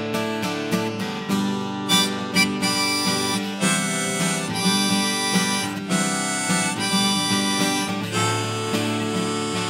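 Instrumental break in a live acoustic song: a harmonica playing a melody of held notes over strummed acoustic guitar.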